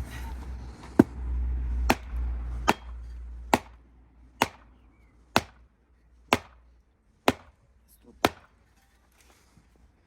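Nine sharp, evenly paced blows, about one a second, each with a short ringing tail. A low rumble under the first few blows stops about a third of the way in.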